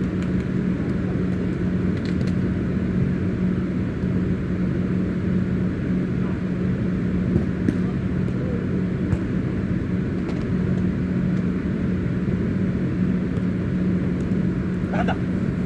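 Steady low rumble with a constant low hum, broken by a few sharp knocks in the middle and a brief distant shout near the end.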